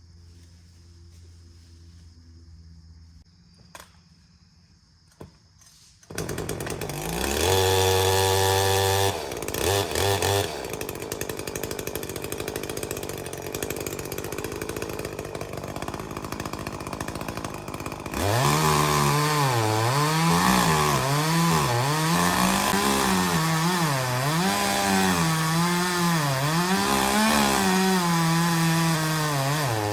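Chainsaw starting up after a few quiet seconds, revving, then running hard with its engine pitch wavering up and down as it cuts.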